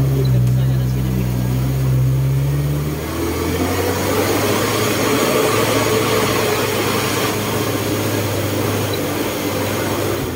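4x4 vehicle engine idling, then revving up about three seconds in and running under load as the vehicle drives off, before settling back to idle at the very end.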